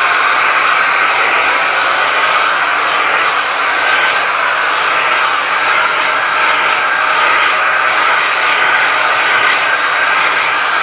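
Vacuum cleaner running steadily: a loud, even rush of air with a faint high whine from the motor.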